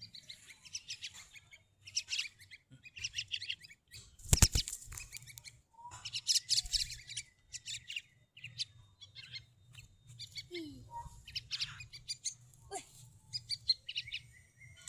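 Pet birds chirping in rapid runs of short, high notes, with one sharp loud knock a little over four seconds in.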